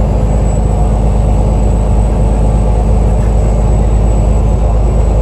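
Alexander Dennis Enviro 500 double-decker bus engine running steadily: a loud, even low rumble with a thin, steady high whine above it.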